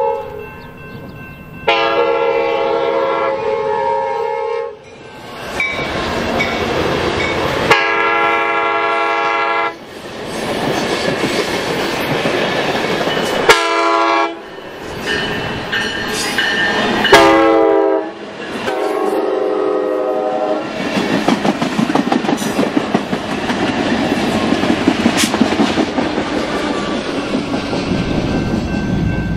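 Amtrak San Joaquin passenger train sounding its horn in several long and short blasts as it approaches. The steady rumble and clickety-clack of the double-deck cars running past on the rails follows and fades near the end.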